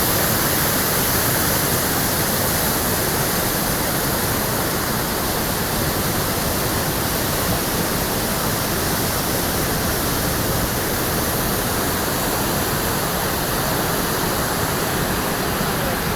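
The River Swale in flood: a steady, unbroken rush of fast, high water.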